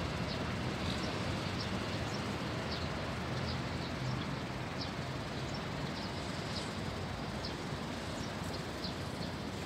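A small bird chirping, short high notes repeated about once or twice a second, over a steady low rumble of background noise.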